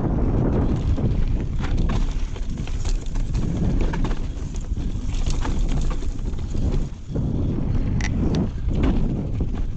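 Wind buffeting an action camera's microphone as a mountain bike descends a rough trail, over the clatter of the bike itself: scattered sharp clicks and knocks from the chain and frame over bumps.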